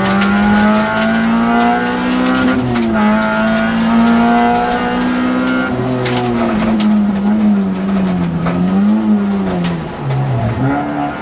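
Peugeot rally car's engine heard from inside the cabin, running hard at high revs, its pitch rising and falling with throttle and gear changes. Near the end the revs drop sharply, then climb again.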